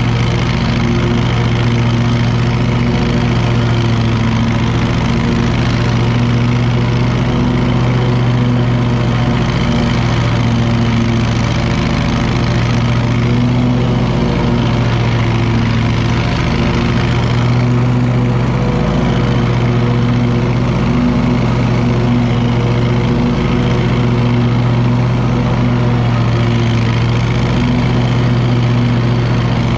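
Wright commercial lawn mower's engine running steadily at a constant pitch while mowing.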